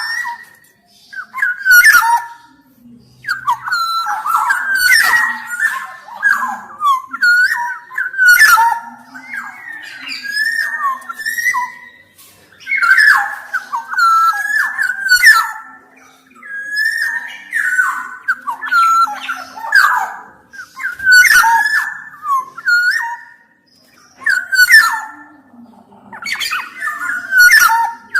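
Black-naped oriole singing vigorously: a busy string of short, slurred whistled phrases mixed with harsher notes, coming in bursts separated by brief pauses every few seconds.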